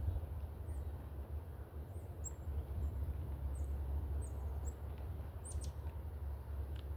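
Small birds giving short, high chip calls, about a dozen scattered through, over a steady low rumble.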